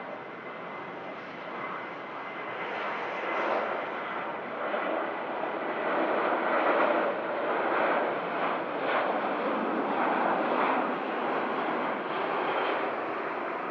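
Airliner engines passing at the airport: the sound builds to a peak through the middle and eases a little near the end.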